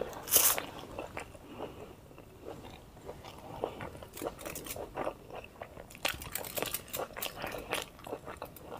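Close-miked biting and chewing of steamed momos (dumplings), a run of short irregular wet mouth clicks and smacks. There is a louder bite about half a second in, and the clicks come thicker about six seconds in.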